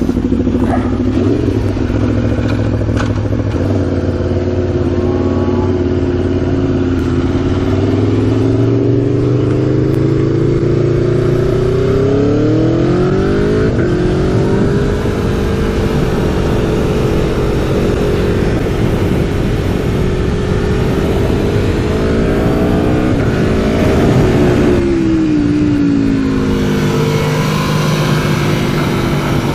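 Aprilia Tuono V4 motorcycle's V4 engine heard onboard at speed, its pitch climbing as the throttle is held open. About thirteen seconds in it rises steeply then drops sharply at a gear change. It climbs again near twenty-four seconds before falling away off the throttle.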